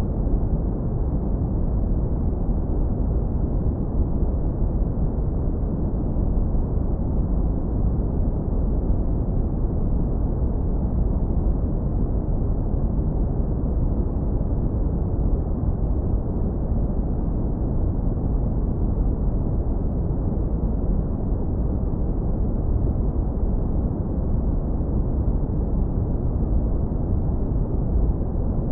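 Synthetic brown noise, heavily low-pass filtered: a steady, deep rumble of hiss with most of its weight in the low end and almost nothing above about 2 kHz.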